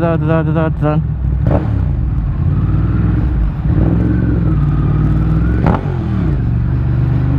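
Big motorcycle's engine running in slow traffic, a low steady drone, with a quick run of short higher-pitched pulses in the first second.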